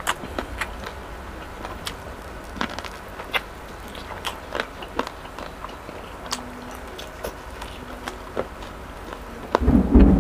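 Close-up crunching and chewing of a crispy fried mild buffalo chicken wing: many short, sharp crunches scattered through. Near the end a loud, low rumble of thunder breaks in.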